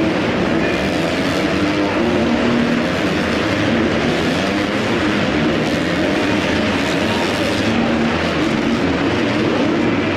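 Several supercross dirt bikes racing together, their engines running and revving in a dense, steady noise.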